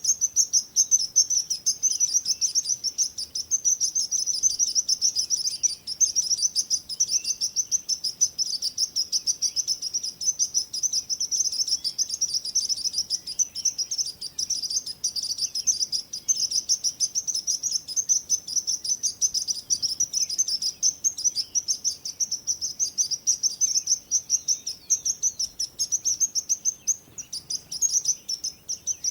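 Birds chirping without a break: a dense, rapid stream of high chirps.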